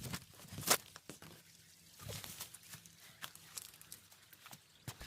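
Footsteps crunching over dry leaf litter and twigs on a bush track, an irregular run of crackles with a few sharper snaps.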